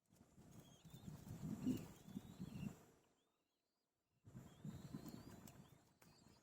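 Faint, thin gliding bird whistles over a low rumbling outdoor noise, in two stretches with a silent break of about a second between them.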